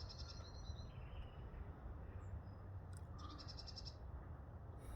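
Faint high trilling chirps, twice, over a low steady rumble.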